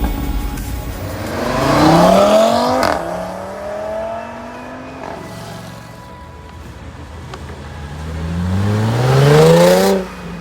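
A car accelerating hard twice, its engine pitch climbing steeply. The first run peaks about three seconds in and drops off suddenly, then eases away. The second builds near the end and cuts off sharply at its loudest.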